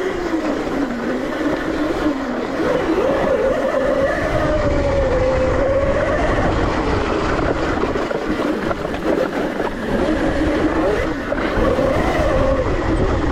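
ETM RTR electric dirt bike's motor whining while riding, its pitch rising and falling with the throttle over a steady low rumble.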